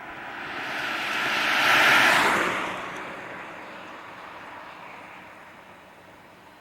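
A vehicle passing close by: a rushing noise that swells, peaks about two seconds in, then quickly falls away and fades.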